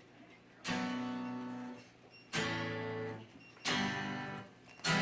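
Acoustic guitar playing the slow intro of a song: four single strummed chords, each left to ring out, the first about half a second in.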